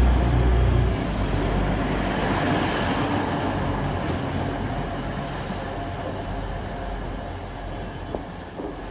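Class 180 Adelante diesel multiple unit pulling away: a loud, low engine rumble in the first second, then a steady rumble that fades as the train moves off.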